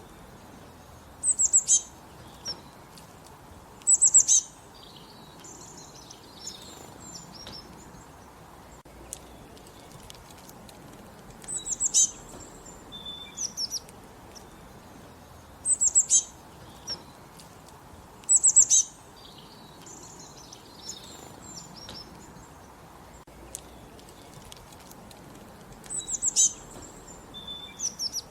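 Songbirds singing in open country: one bird repeats a short burst of quick, very high notes about six times, a few seconds apart, while other birds chirp softly in between.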